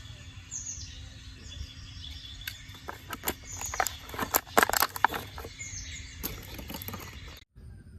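A run of sharp clicks and knocks, densest and loudest about halfway through, over a steady low rumble, with a few short high chirps like birdsong in the background.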